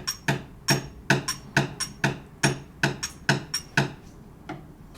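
Sharp percussive knocks beating out a four-against-three polyrhythm, two interleaved pulses of taps. They stop about four seconds in.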